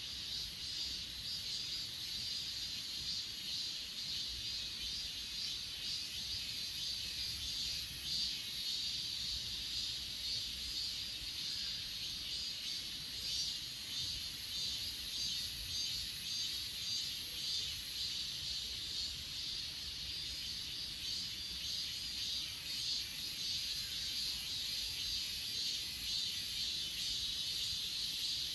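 Chorus of crickets and other grass insects chirping continuously, a steady high-pitched drone in two high registers with a faint fast pulse.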